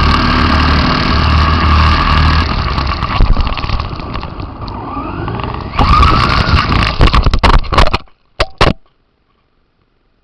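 RC car's electric motor whining under throttle. It eases off about four seconds in and spins up again, with a run of sharp knocks and rattles. The sound cuts off about eight seconds in, followed by two short bursts.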